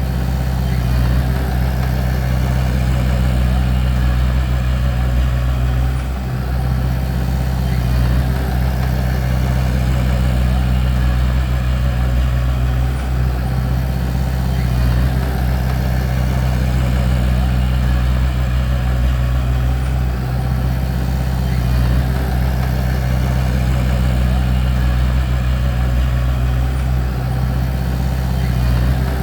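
Bulldozer's diesel engine running steadily at a constant speed, a deep even drone.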